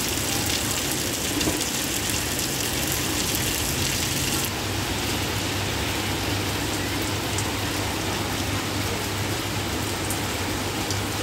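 Steady rain falling on a wet street, an even hiss of rain on pavement with a low steady hum underneath. The hiss turns duller about four seconds in.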